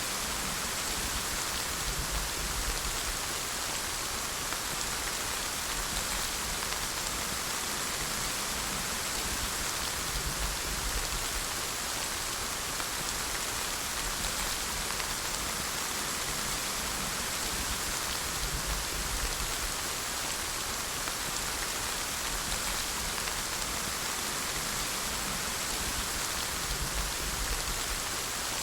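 Steady rain falling and pattering on surfaces, an even hiss without pause.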